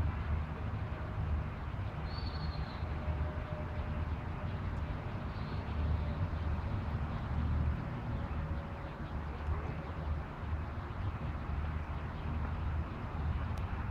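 Outdoor background noise: a steady low rumble, with a short high chirp about two seconds in.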